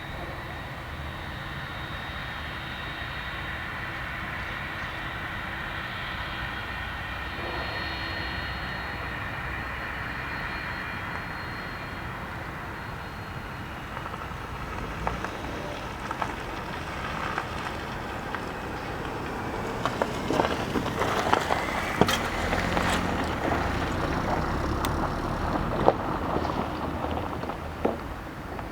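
Boeing 767 jet engines running at low power with a steady high whine as the airliner taxis. In the last third, scattered sharp clicks and knocks sound over the engine noise.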